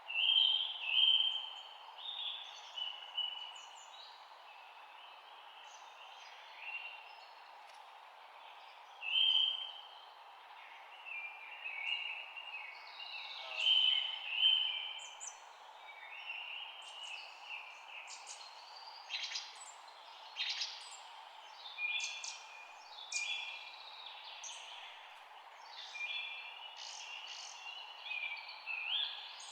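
Wild birds chirping and singing in short, scattered phrases of high chirps and trills, heard over a steady background hiss of outdoor ambience.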